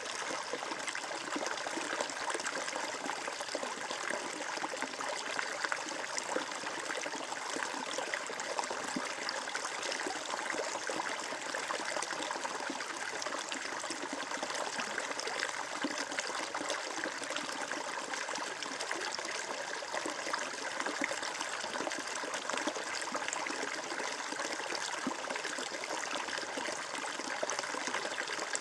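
Water flowing and trickling steadily, a stream or small cascade babbling over stones.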